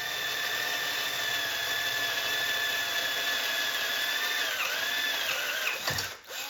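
Electric drill drilling a bolt hole through the engine stand's frame. It runs with a steady whine, its pitch sags under load after about four and a half seconds, then it winds down and stops just before the end, followed by a sharp click.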